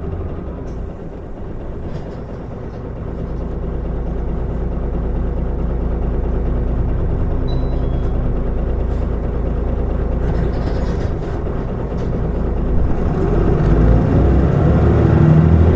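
Mitsubishi Fuso Aerostar city bus's diesel engine running as the bus drives. The engine note builds gradually, and near the end its pitch rises as the bus accelerates.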